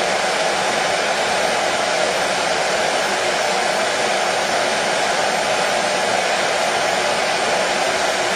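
Hair dryer running steadily: a constant, even rushing hiss with no change, played as white noise for sleep.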